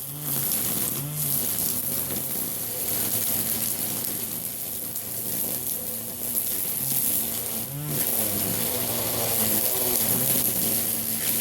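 Battery-powered cordless string trimmer running with a steady buzzing drone as it trims garden plants, its note swelling briefly a few times.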